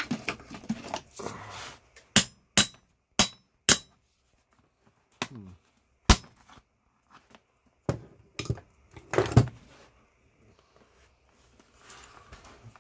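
Hand tools knocking and tapping against a massager's cast aluminium case as it is being taken apart. Four quick sharp strikes come about two seconds in, then several more scattered knocks, some with a short metallic ring.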